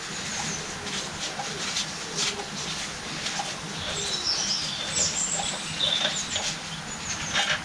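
Small birds chirping in short high calls, loudest around the middle, with light clicks and taps of small metal pump parts being handled.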